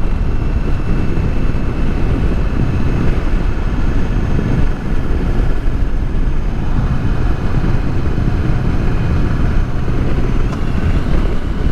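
Motorcycle on the move, its engine running under a steady, loud low rumble of wind and road noise.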